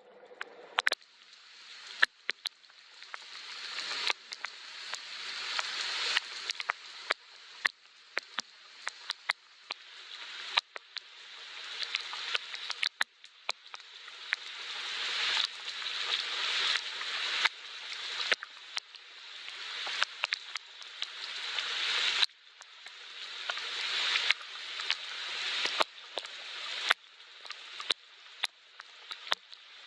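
Soft rain: a hiss of falling rain with many sharp drops striking close by, the hiss swelling and then cutting off abruptly every two seconds or so.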